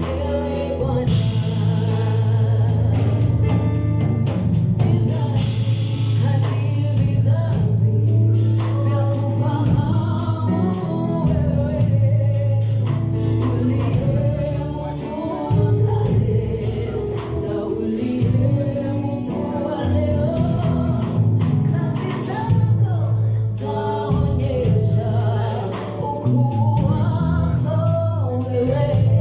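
Gospel worship music: voices singing a melody over a steady bass line and percussion.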